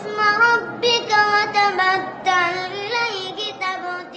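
A child's voice reciting the Quran in a melodic, chanted style (tartil), with drawn-out held notes that bend up and down in pitch.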